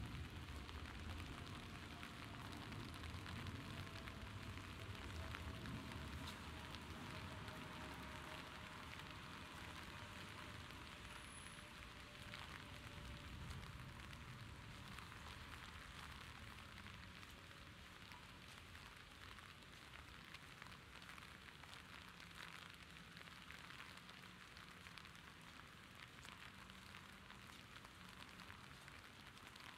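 Steady rain falling, a fine hiss with individual drops ticking throughout. A low rumble underneath fades away about halfway through.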